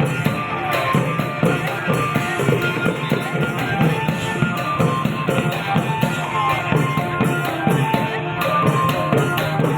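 Klong yao long-drum band playing music: fast, dense drum strokes under a continuous melody.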